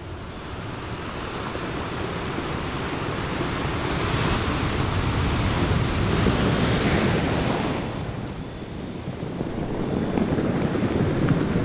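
Ocean surf: a wave rushes in, swelling for a few seconds before it falls away, and a second one builds near the end.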